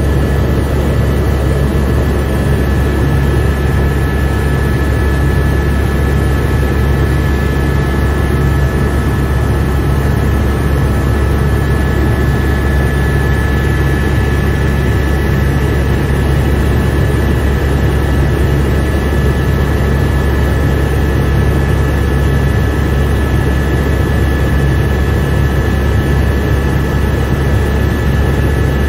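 Helicopter in steady flight, heard from inside the cabin: a loud, even low drone of rotor and engine with a few steady high whining tones above it.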